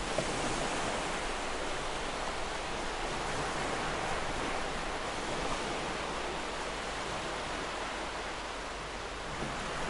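Ocean surf on a beach: a steady wash of breaking waves with no single crash standing out, swelling slightly and easing a little near the end.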